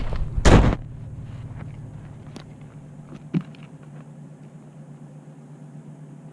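A loud, brief rustle or knock about half a second in, then a low, steady engine hum, like a vehicle idling, with a few faint clicks and a small knock a little past three seconds.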